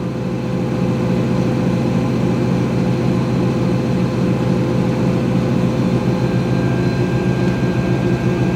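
2006 GE Profile top-loading washer running steadily, its motor and basket spinning with an even hum while the water spins out before the rinse fill.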